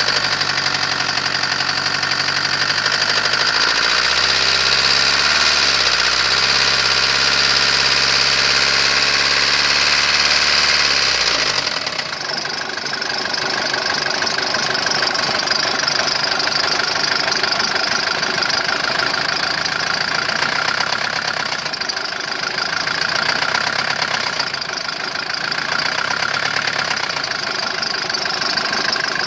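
Mercedes-Benz OM601 four-cylinder diesel engine running with the knock the owner is showing. About twelve seconds in, its steady low hum drops away and a rougher running sound continues.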